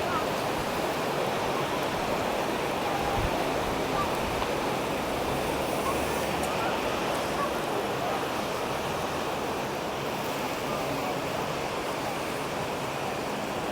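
Steady wash of sea surf, an even rushing noise with no breaks.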